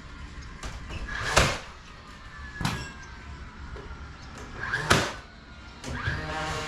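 Three sharp knocks of garage door hardware being handled during installation, about one and a bit seconds and then two seconds apart, the first and last the loudest.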